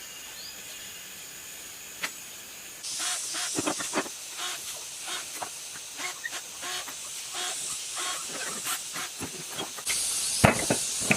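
A high hissing jet starts about three seconds in, with many light knocks and clinks from handling metal parts. A louder burst of hissing starts near the end.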